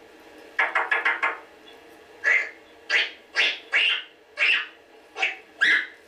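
A pet talking bird calling: a quick run of about four short calls, then seven separate short calls spaced roughly half a second apart.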